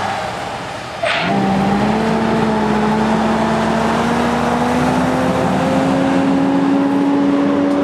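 Motorcycle engine pulling steadily, its pitch rising slowly as the bike gathers speed, over a rushing haze of wind and road noise. The sound jumps up in level about a second in.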